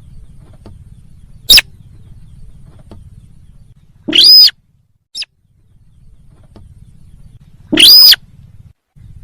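Sintar bird-lure call: four loud, sharp calls, a short one about a second and a half in, a longer rising-and-falling one around four seconds, a brief one just after, and another long one near eight seconds, over a faint low hum.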